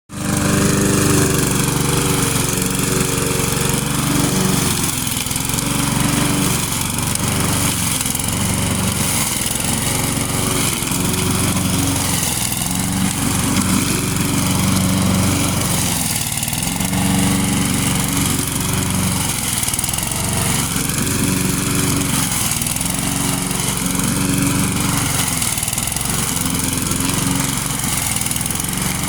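Lawn mower engine running steadily while cutting high grass, its pitch dipping and recovering every few seconds as the tall grass loads it down and makes the mower work hard.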